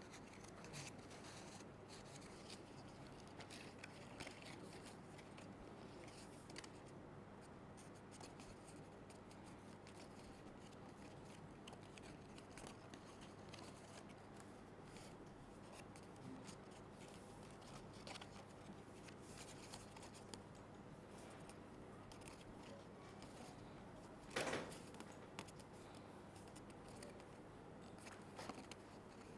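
Near silence with faint paper rustling and small clicks of paper circles being handled and pressed together, with one brief louder rustle about 24 seconds in.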